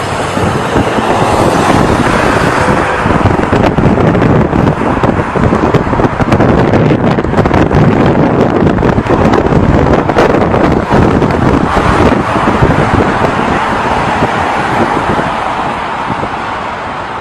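Loud, steady rushing of engine and wind noise with crackling buffets, building over the first couple of seconds and easing off near the end.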